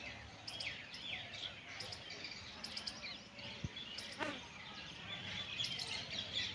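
Many small birds chirping and twittering together in a steady chatter, with one quick call sweeping sharply downward about four seconds in.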